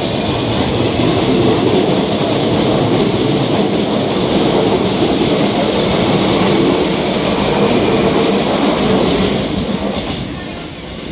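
Hankyu 1000-series electric train pulling out of the station, its cars running past with a steady rumble and wheel-on-rail noise that falls away over the last second or two as it leaves.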